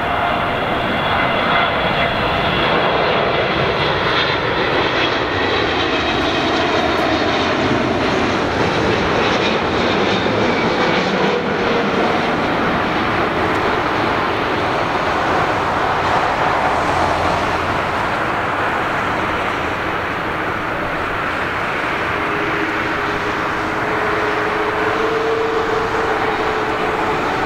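Jet airliner on its landing approach, engines running in a loud, steady rush with faint whining tones that drift in pitch.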